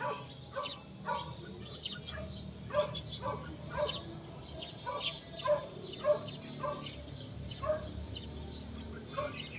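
Birds chirping: many short, sharp rising chirps, several a second and overlapping, over a steady low hum.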